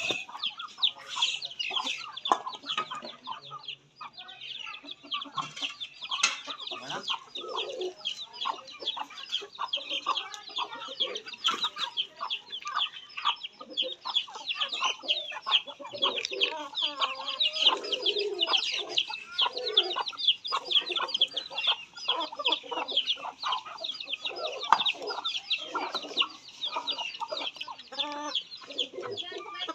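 A crowd of chickens calling: a dense, continuous chorus of rapid high peeps with scattered lower clucks beneath.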